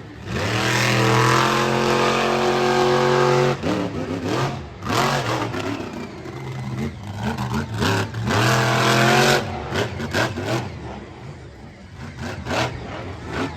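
Monster truck engine revving hard in two long bursts, its pitch climbing each time, with a run of short sharp bangs between and after the bursts.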